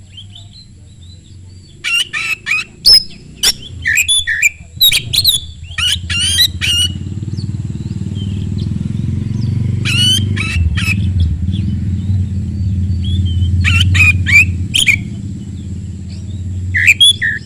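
Oriental magpie-robin (kacer) singing fast, loud bursts of varied whistled and chattering phrases in several separate runs. A steady low rumble sits underneath from about four seconds in.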